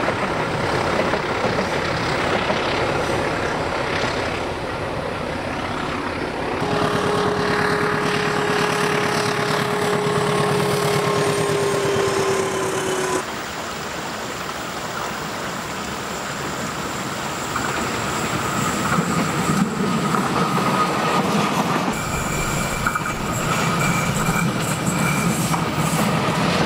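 Passenger trains hauled by diesel locomotives running past on curved track, engine noise mixed with coaches rolling over the rails, the sound cutting abruptly to a new pass several times. Through the middle a steady tone is held for about six seconds, falling slightly in pitch.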